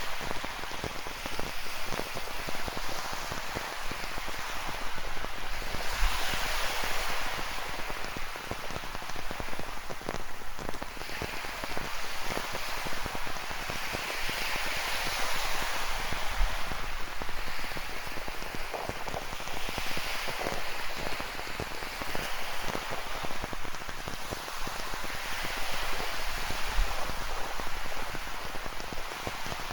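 Steady rain falling, with many close drops ticking, over ocean waves that swell and break every four to five seconds.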